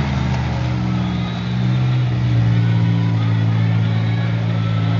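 Demolition derby cars' engines running hard in a dirt arena, a loud steady drone that rises and falls a little in pitch as the cars push against each other.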